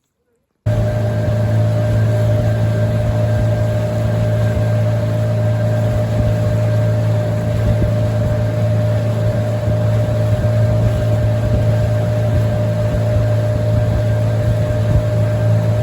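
Boat motor running steadily under way: an even low drone with a steady higher whine above it, cutting in suddenly about half a second in.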